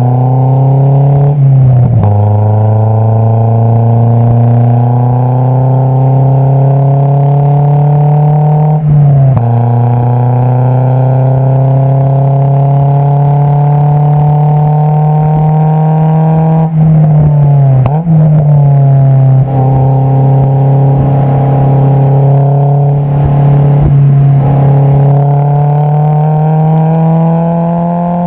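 Honda S2000 AP2's 2.2-litre four-cylinder engine heard at the tailpipe through an Invidia V4 Q300 exhaust while driving. The engine note climbs slowly and steadily under gentle acceleration. It drops sharply and climbs again about four times, about 2, 9, 17 and 19 seconds in.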